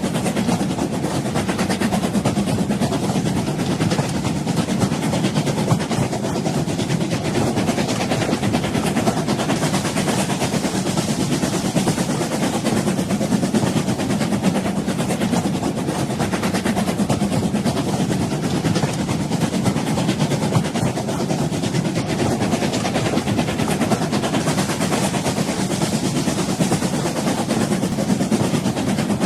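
Steady rumble of a moving old train, a continuous even noise with no distinct wheel clicks, horn or whistle.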